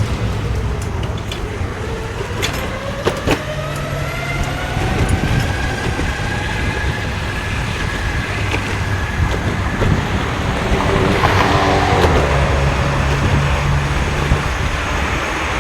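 Street ride and traffic noise: a steady low rumble of road noise, with a motor whine that rises over a few seconds and then holds steady, a few sharp clicks, and a brief cluster of tones about eleven seconds in.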